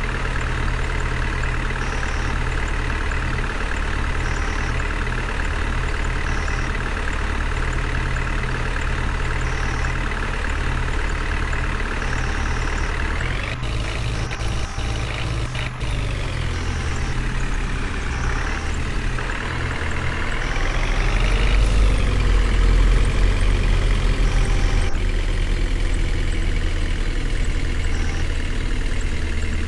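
Heavy vehicle engine idling, with its pitch shifting a little past the middle, then revving up and falling back about two-thirds of the way through.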